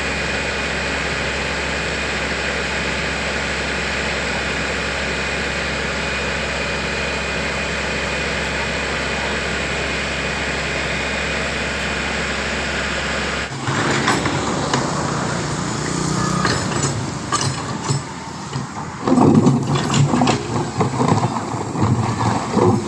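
A heavy diesel engine running steadily at a constant speed. About 13 seconds in, it cuts off abruptly, giving way to irregular clattering knocks and voices.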